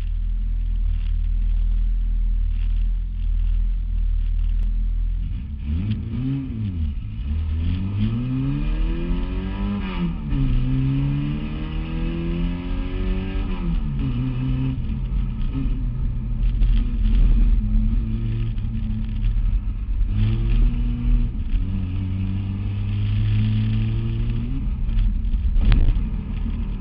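Lada race car's engine heard from inside the cabin: a steady running hum for about five seconds, then revving up and dropping back repeatedly as the car accelerates and changes gear. A sharp thump near the end.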